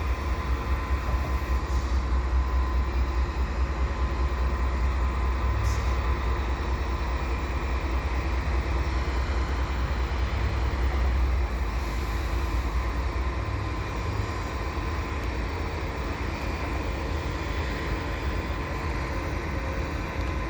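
Canadian Pacific freight train's GE AC4400CWM diesel locomotives running as the train stands or creeps, a steady deep rumble that eases a little about halfway through, with a thin steady whine above it.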